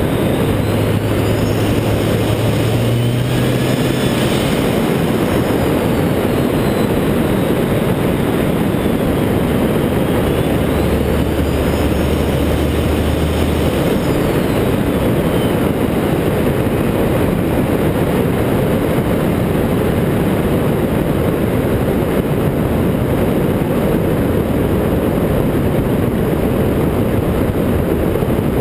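Cummins diesel pickup with an aftermarket 64mm turbo, heard as a steady, loud rumble of engine and road or wind noise that barely changes in level.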